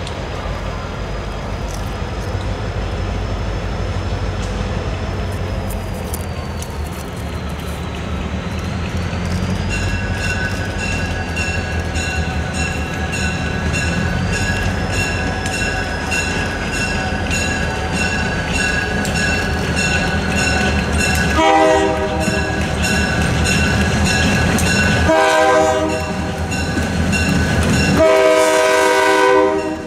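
Approaching diesel freight locomotives of a shortline railroad, their engines making a steady low rumble. A bell rings repeatedly from about a third of the way in, and the locomotive air horn sounds three loud blasts in the last third as the train draws near.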